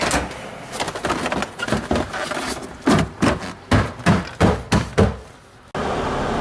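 A run of knocks and clacks as the refrigerator's interior panels and parts are handled and fitted back in place, with a burst of about eight sharp knocks in the second half. Near the end it cuts off abruptly and a steady hum begins.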